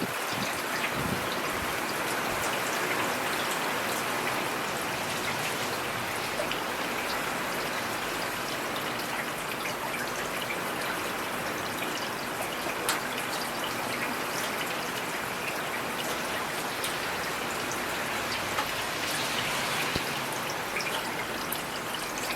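Steady rain falling: an even hiss with many individual drops ticking sharply here and there.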